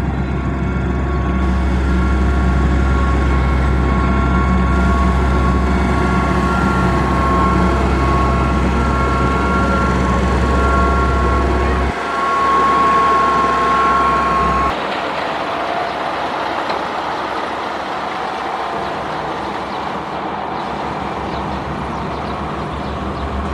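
Heavy construction machine's diesel engine running steadily with a deep rumble and a steady whine. The low rumble drops away about twelve seconds in, and about fifteen seconds in the sound changes abruptly to a rougher machine noise.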